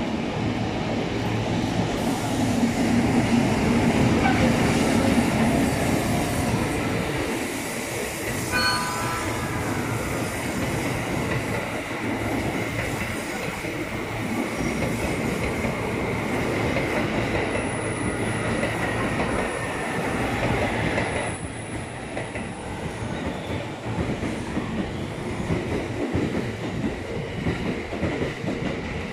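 Electric locomotive EF65 hauling a rake of new Tokyo Metro 17000 series subway cars past at low speed, wheels rumbling and clattering on the rails. A thin steady wheel squeal runs through most of the pass and stops about three-quarters of the way through.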